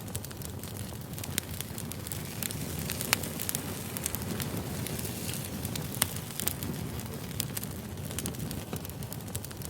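Wood fire burning: a steady low rumble of flames with irregular sharp crackles and pops from the burning logs. The loudest pops come about three and six seconds in.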